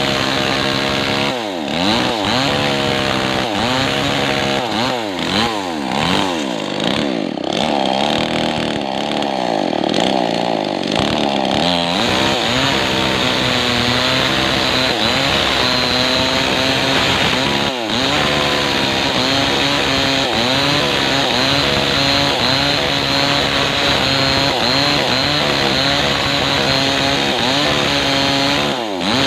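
Maestro 6500L two-stroke chainsaw cutting kapok wood. For the first dozen seconds the engine pitch swings up and down as the throttle is worked. About twelve seconds in it settles into a steadier, loaded note with a continuous rushing noise of the chain in the wood, dipping briefly once.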